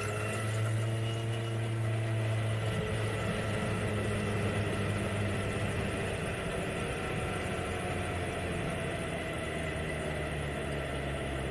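Kawasaki Z900's inline-four engine running steadily at low revs, a constant low hum with no revving.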